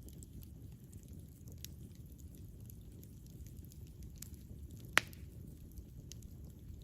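Campfire burning with a steady low rumble and scattered faint crackles, and one loud sharp pop about five seconds in.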